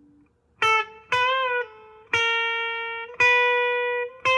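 Electric guitar played clean with the effect pedal bypassed: five single picked notes at about the same high pitch, each left to ring and slowly fade, the second with a slight vibrato.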